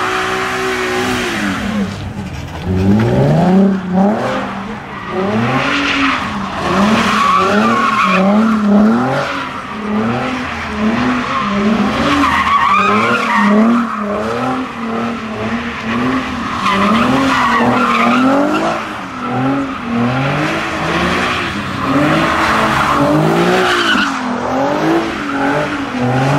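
Car engine revved up and down over and over, about once a second, with steady tire squeal from a car spinning donuts or burnouts.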